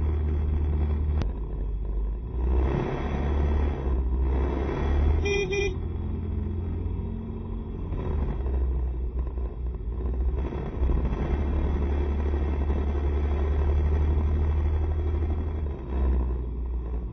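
Riding noise from a Honda SCR110 scooter in city traffic: a steady low rumble of engine, road and wind. A vehicle horn gives one short honk about five seconds in.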